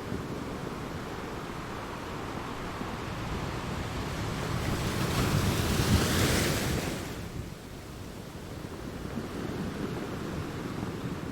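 Sea waves breaking against rocks: a steady rush of surf, with one wave building up about halfway through, crashing, and washing back. Some wind buffets the microphone.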